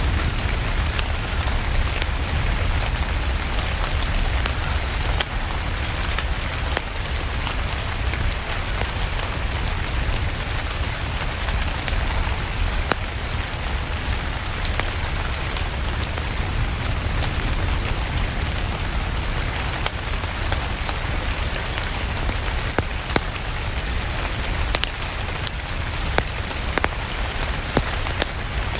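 Steady rain mixed with a crackling wood fire: an even hiss over a low rumble, with scattered sharp pops and clicks throughout.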